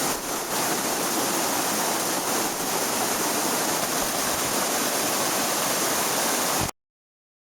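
Steady rushing of flowing water, an even hiss with little bass, which cuts off suddenly about a second before the end.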